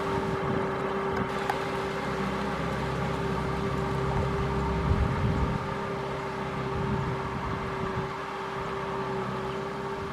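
Kubota M6040SU tractor's diesel engine running steadily, with a constant whine held over an uneven low rumble.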